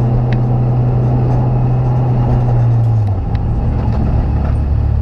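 Race car engine heard from inside its stripped, caged cabin, running steadily at low revs. About three seconds in it drops to a lower, settled idle.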